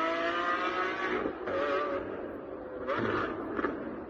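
Lamborghini Aventador SVJ's V12 engine through a Novitec aftermarket exhaust, revved in several separate bursts, its pitch rising and falling, with a quieter dip about two seconds in.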